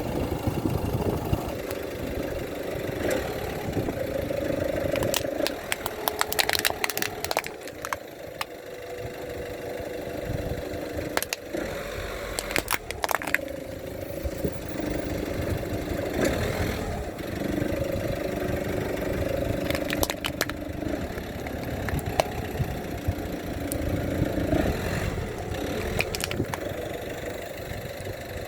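Car engine running at low speed while the tyres roll over and crush objects, with clusters of sharp cracking and crunching a quarter of the way in and again around the middle.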